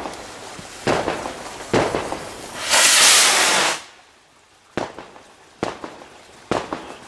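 Fireworks going off: sharp bangs about a second apart, a loud hissing burst about three seconds in that lasts about a second, then several fainter bangs.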